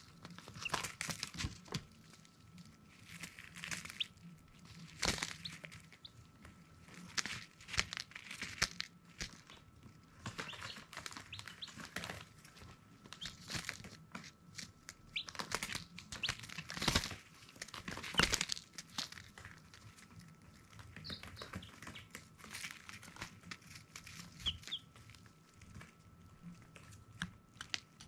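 Baby chicks moving about: irregular rustling and scratching with a few short, high peeps, mostly in the second half. A faint steady high hum sits underneath.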